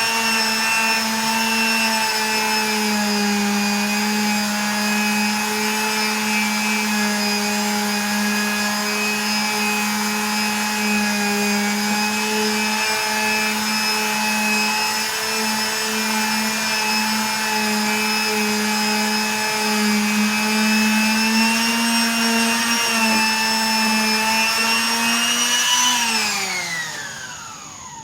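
Electric power tool motor running at a steady high speed, then switched off about two seconds before the end, its pitch falling as it spins down.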